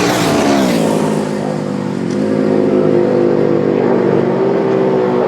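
Road-racing motorcycle engines at high revs: one bike's note drops steeply in pitch over the first couple of seconds as it goes by, then another engine note holds fairly steady, wavering slightly.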